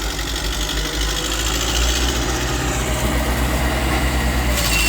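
Diesel engine of a small D20P bulldozer running with a steady low throb.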